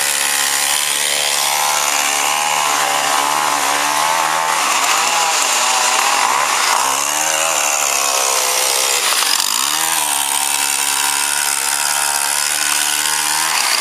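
Chainsaw running loudly and steadily, its pitch dropping briefly and recovering three times, about 4, 7 and 9 seconds in.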